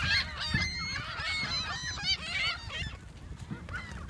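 A flock of seagulls calling over one another: many overlapping squawks and cries at once, as the birds crowd in for food being thrown to them.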